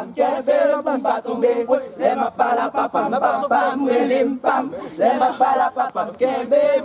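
A group of many voices chanting and calling out together at once, loud and overlapping, with no single voice standing out.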